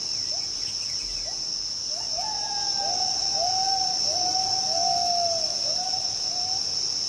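Gibbon singing: short rising whoops come faster and run into a string of longer arched notes. A steady high insect drone, like cicadas or crickets, runs underneath.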